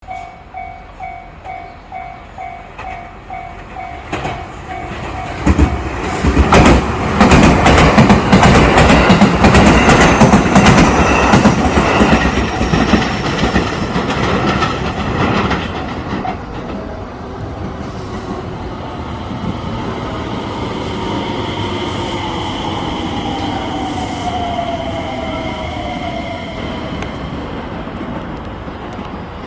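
A Japanese level-crossing bell rings in quick pulses, about two a second. From about five seconds in, a JR West 223 series four-car electric train passes at speed, its wheels clacking over the rail joints for about ten seconds. As that fades, an electric train's inverter motor whine falls in pitch as it slows.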